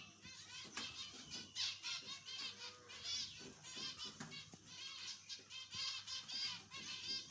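Zebra finches calling: a busy chatter of short, rapid chirps from several birds at once, overlapping throughout.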